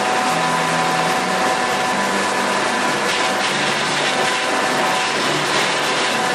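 Massey Ferguson 275 tractor's diesel engine running steadily under work, with a steady high whine over the engine noise.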